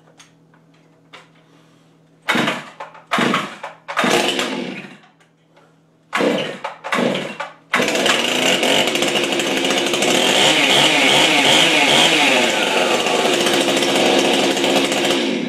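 Cold start of a Stihl MS261 two-stroke chainsaw with a modified muffler. It is pull-started and fires in several short bursts, then catches about eight seconds in. It runs steadily for about eight seconds and cuts off suddenly near the end.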